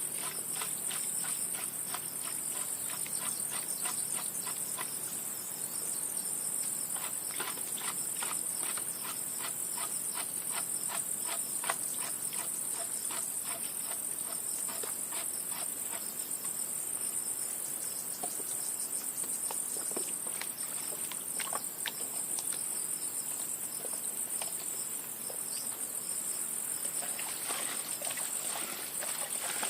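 Steady high-pitched chirring of insects, with many small irregular clicks or ticks scattered through it that grow denser near the end.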